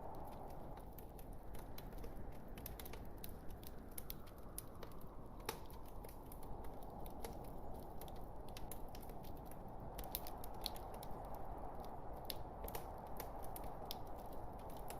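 Wood fire in a fireplace crackling: many irregular sharp snaps and pops from the burning logs over a steady soft rush of the flames.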